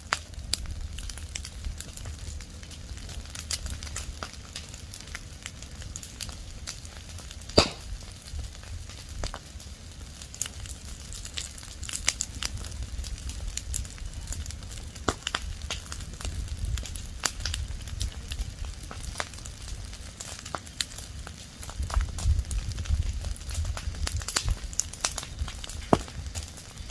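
Leaves and branches burning in an open fire, crackling steadily with scattered sharp pops over a low rumble, and one louder pop about a third of the way in.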